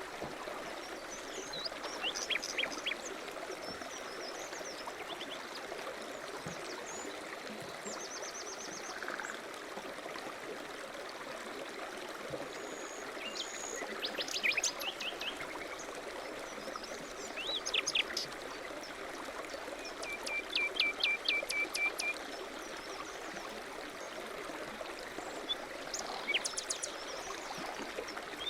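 Small songbirds chirping and trilling now and then, including one trill of quick repeated notes about two-thirds of the way in, over a steady rushing background noise.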